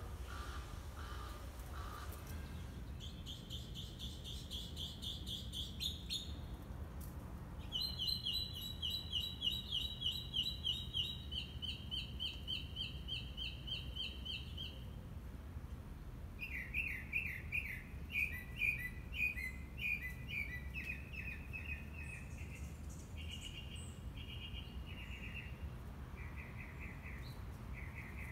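A songbird singing in rapid trills of quickly repeated high notes, in several bursts of a few seconds each. The later bursts are lower and choppier. A steady low background rumble runs underneath.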